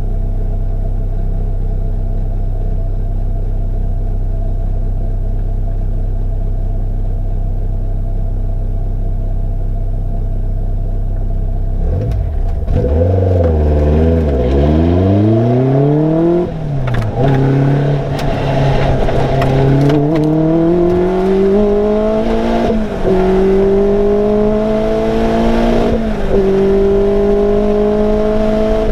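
Caterham Superlight's engine idling steadily. About twelve seconds in it revs up and down, then the car pulls away: the engine note climbs and drops back several times as it changes up through the gears.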